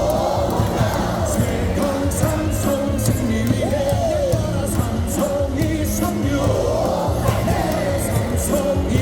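Baseball crowd in the cheering section singing a cheer song along with amplified music, over a steady beat.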